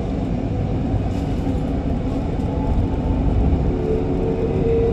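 MRT Kajang Line metro train running between stations: a steady low rumble from the wheels and running gear. A faint steady motor tone joins about four seconds in.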